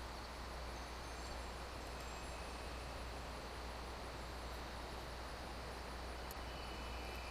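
Faint, steady hiss with a constant low hum: the background noise of a quiet recording, room tone.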